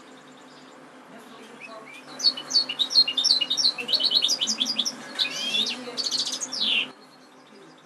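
European goldfinch singing: soft chirps, then from about two seconds in a loud, fast run of twittering notes and short trills that ends in a long falling note and breaks off suddenly.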